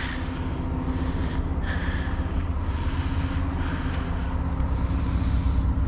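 Heavy diesel truck engine idling steadily, a constant low drone with a steady hum.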